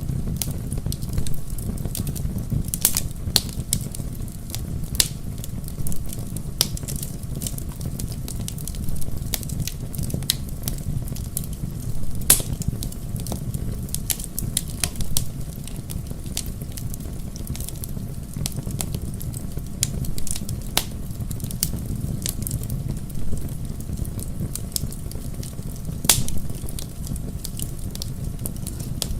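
Bonfire burning: wood crackling and popping with many sharp, irregular pops over a steady low rumble of the flames.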